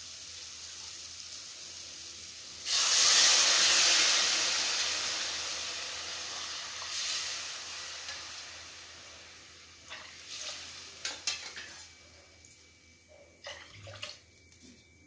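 Onion-tomato masala sizzling in hot oil in a kadai; about three seconds in, water is poured onto it and it flares into a loud hissing sizzle that slowly dies away. A few light knocks and clinks follow near the end.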